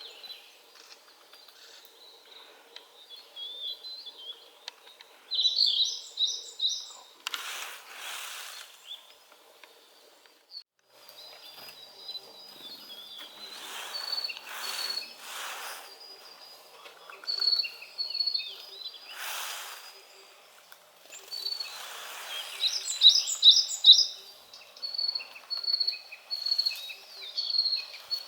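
Wild songbirds singing and calling, with repeated high chirps and short trilled phrases that come loudest twice. A few brief bursts of noise cut across the song.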